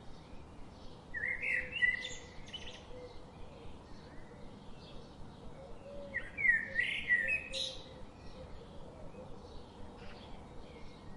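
Songbird singing two loud warbling phrases about five seconds apart, over fainter chirping of other birds.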